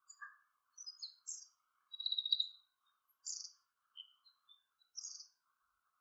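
Small birds calling: a loose string of short, high chirps and buzzy notes, the loudest a longer thin note about two seconds in.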